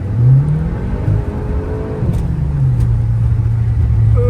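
Car engine pulling up through the revs in short rising climbs, then settling to a steady drone from about two and a half seconds in.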